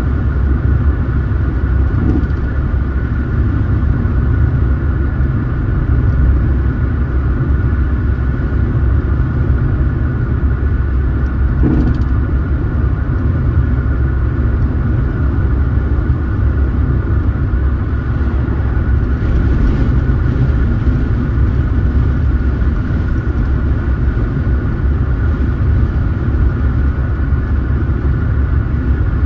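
Car driving along: steady low road and engine rumble, with one brief knock about twelve seconds in.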